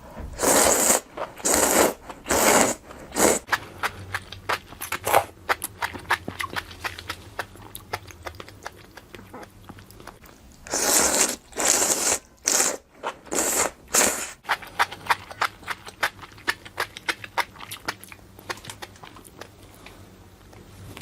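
Close-miked eating of grilled barbecue: two spells of loud crunching bites, each followed by long runs of rapid crackly chewing.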